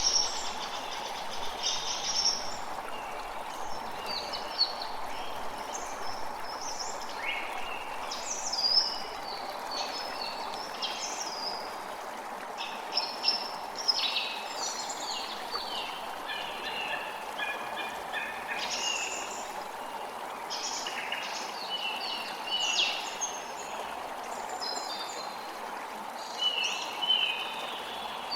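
A creek flowing steadily, with small birds chirping and trilling over it in frequent short phrases.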